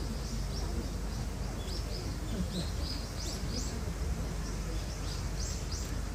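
Small birds chirping: many short, high chirps scattered through, over a steady low background rumble.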